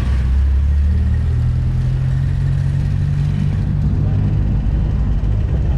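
Vehicle engine droning, heard from inside the cab while driving, with road noise; its pitch climbs slowly, then drops lower about three and a half seconds in.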